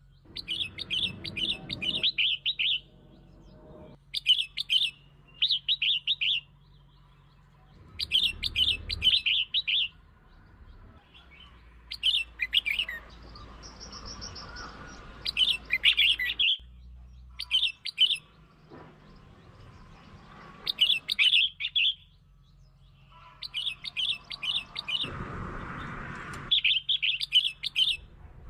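Red-whiskered bulbul singing its provoking song, used as a lure call: short, bubbly, warbling phrases repeated every second or two with brief pauses between them.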